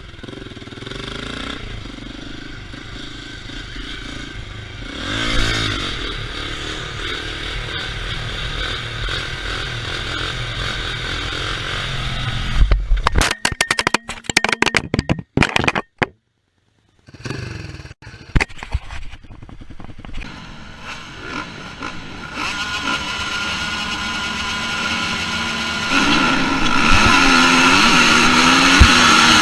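Off-road motorcycle engines running, then a run of loud clattering knocks about halfway through and a brief break. After that an engine builds louder, revving up and down near the end.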